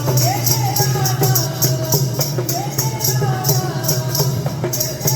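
Devotional bhajan music: a sung melody over a steady low drone, with jingling hand percussion keeping an even beat of about four strokes a second.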